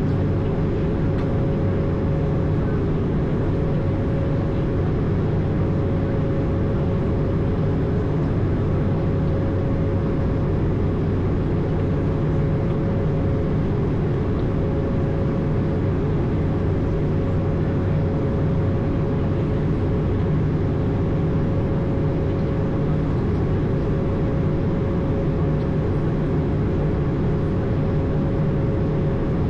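Steady in-flight cabin noise inside an Airbus A220 cockpit: constant rushing airflow with a low hum and a steady mid-pitched tone, unchanging throughout.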